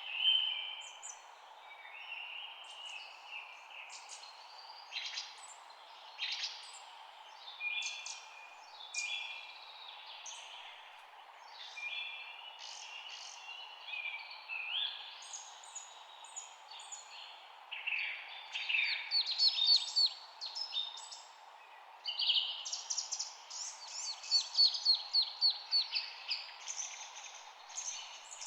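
Songbirds chirping and calling in short whistled phrases, over a steady low background hiss. Fast runs of rapid chirps come about two-thirds of the way in and again near the end.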